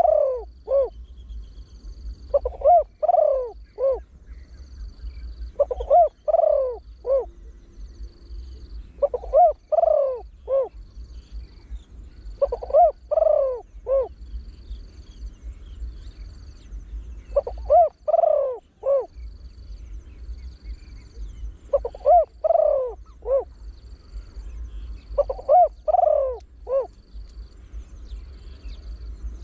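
Spotted dove cooing: repeated phrases of four or five quick, falling coos about every three to four seconds, in the deep 'big-voiced' style of a trained bird.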